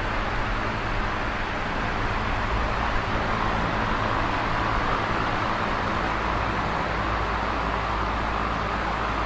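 Electric fan running steadily: a constant airy rush with a low, even hum underneath.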